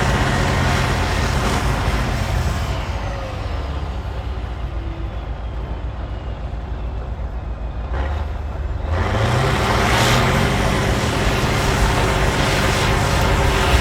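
Cat D9L bulldozer's V12 diesel engine working under load. It eases off to a lower, quieter running for several seconds in the middle, then revs back up with a rising pitch about nine seconds in and runs loud again.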